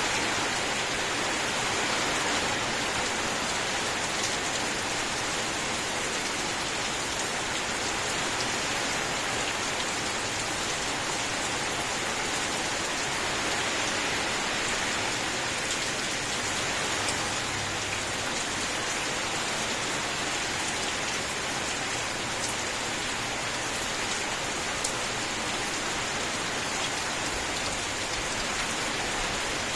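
Steady rain falling: an even, continuous hiss with a few faint drop ticks here and there.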